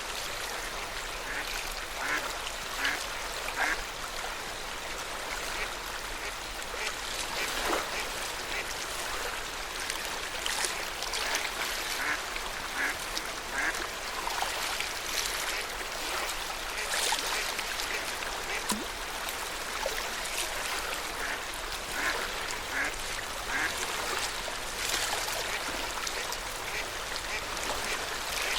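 Lake water lapping and gurgling at the shore, with short, irregular splashes or calls that recur throughout.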